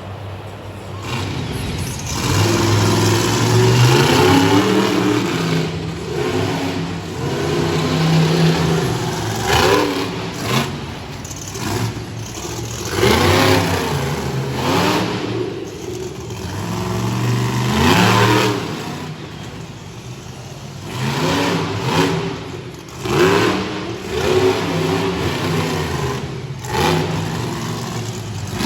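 Monster truck engine revving hard over and over, its pitch climbing and dropping again every few seconds.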